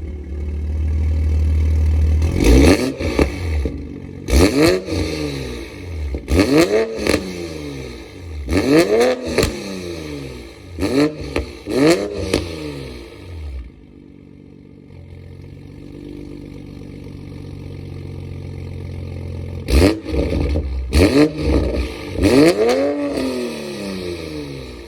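A90 Toyota Supra with a custom exhaust and catless downpipe idling and being blipped: about six quick revs in a row, each rising and falling in pitch with sharp cracks, then a few seconds of steady idle, then three more blips near the end.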